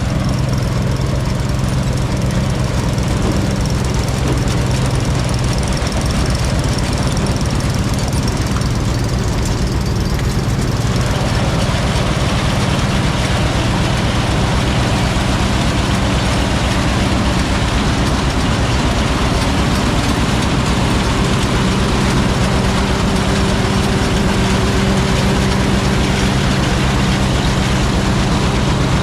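Tractor engine running steadily with a low, even hum. About eleven seconds in, a louder, noisier mechanical sound joins it.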